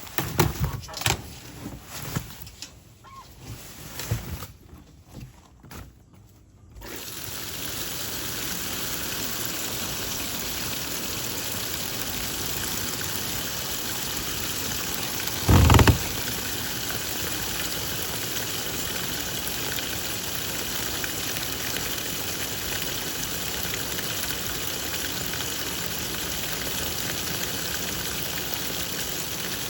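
Twin-tub washing machine: a few irregular knocks and clicks, then about seven seconds in water starts running steadily into the tub, with one short loud thump about halfway.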